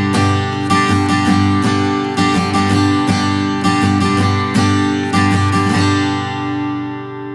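Taylor Builder's Edition 324ce acoustic guitar strumming a G major chord in the pattern 1, 2, 3-and, 4-and, repeated bar after bar. The strums stop about six seconds in and the chord rings on.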